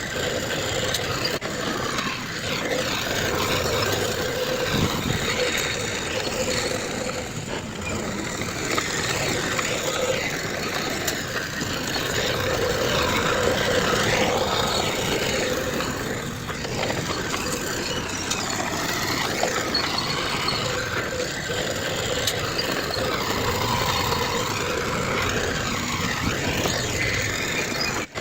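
Heavy earthmoving machinery running steadily: the diesel engines of a bulldozer or dump trucks working.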